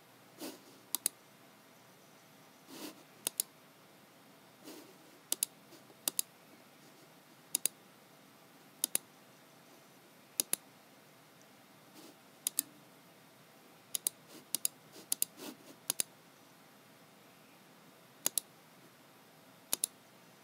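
Computer mouse button clicks at irregular intervals, each a sharp press-and-release pair, with a few softer dull knocks in between.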